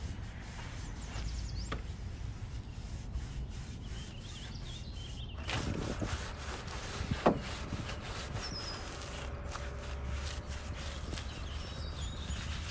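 Intermittent rubbing and scrubbing on a surface, growing busier about five seconds in, with a single sharp knock a little after seven seconds.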